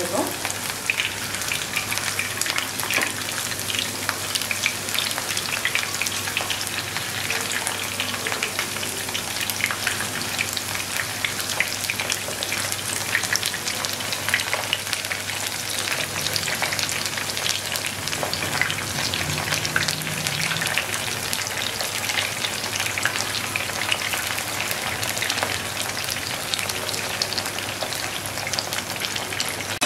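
Batter-coated chicken pieces (cornflour and egg white) frying in hot oil in a pan: a steady, dense sizzle of fine crackles.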